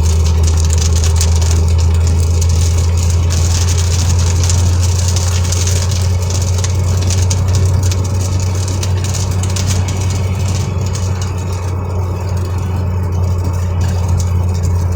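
Car driving, heard from inside the cabin: a steady low drone of engine and road noise with a high hiss over it that thins out about ten seconds in.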